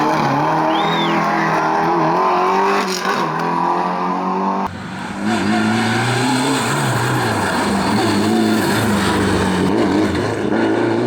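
Historic rally car engines revving hard under acceleration, the pitch rising and falling through gear changes. About halfway in, the sound switches abruptly to a second car doing the same.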